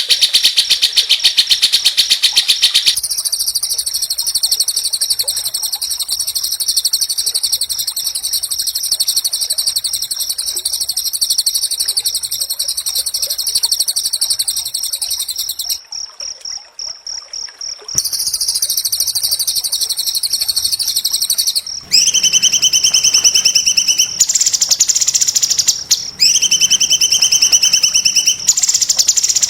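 Songbird song of very fast, harsh, buzzy trills, repeated in long unbroken runs, with a quieter stretch just past halfway. Near the end, shorter trill phrases alternate every two seconds or so, with abrupt switches that mark edits in the recording.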